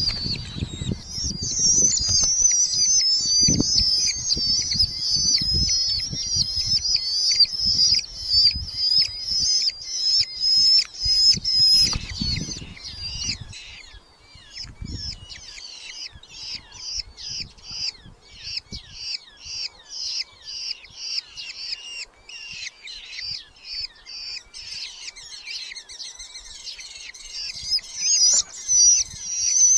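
Red-footed falcon chicks calling: a rapid string of high-pitched repeated calls. In the first half the calls are dense, over low thumps and scuffling in the nest box. After that they come as separate calls at about three to four a second.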